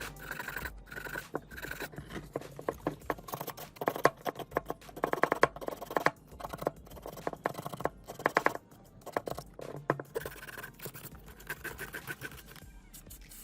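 Hand scraping or brushing on rusty metal in runs of quick, rhythmic strokes, broken by short pauses.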